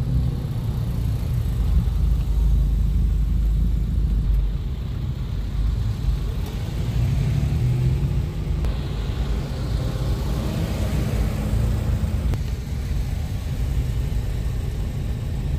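Car engines running at low speed in slow-moving traffic, with a steady low rumble throughout.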